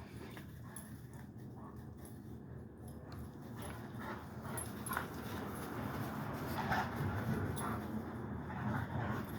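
Two dogs playing over a ball: scuffling noises that get louder about halfway through, with a few short sharp knocks.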